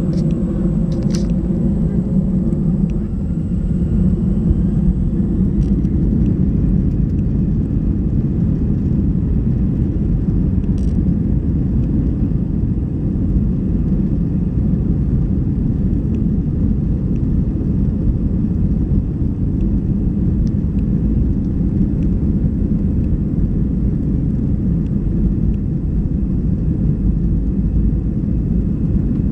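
Jet airliner engines and airflow heard from inside the cabin: a loud, steady, low rumble, with a faint rising whine in the first few seconds.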